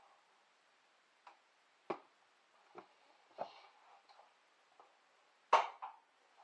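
Irregular small clicks and knocks of batteries being fitted into a small battery-powered device, about six in all, the loudest a little over five seconds in.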